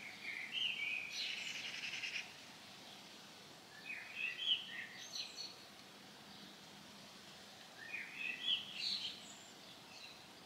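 A songbird singing three short phrases a few seconds apart, the first ending in a rapid trill, over faint outdoor background noise.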